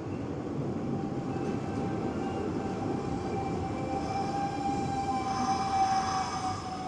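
Hanshin Railway electric train running on the rails: a steady rumble of wheels and track with one steady whine through it. Higher-pitched squealing joins from about four seconds in and fades near the end.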